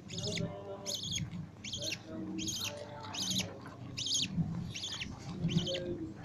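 Budgerigar chicks begging while a parent budgie feeds them: short, high chirps repeating evenly about every two-thirds of a second.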